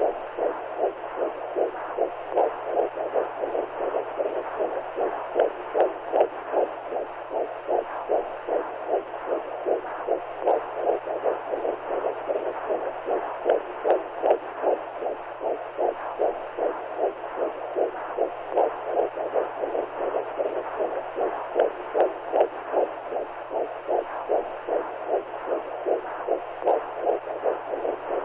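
Womb sound for soothing a newborn: a steady rushing noise that pulses in an even, heartbeat-like rhythm, over a faint low hum.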